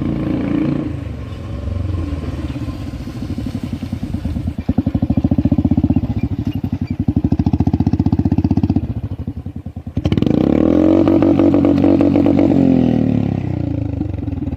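Royal Enfield Thunderbird 350X's single-cylinder engine running through an aftermarket double-barrel silencer with the dB killer removed. It idles, then runs a little faster with each firing pulse distinct, and about ten seconds in a throttle blip rises and falls in pitch.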